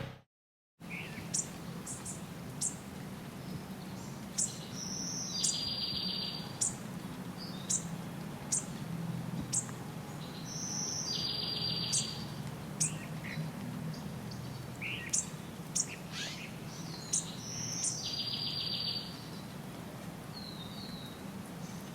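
Rainforest birds calling: many short, high chirps scattered throughout, and a longer buzzy call repeated three times about six seconds apart, over a steady low hum.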